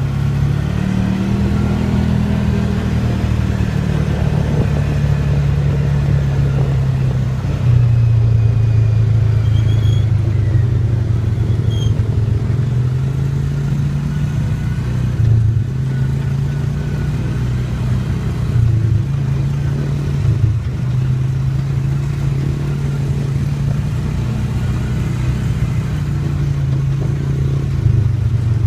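Dirt bike engine running as it is ridden, its revs stepping up and down again and again, with a louder rise about eight seconds in.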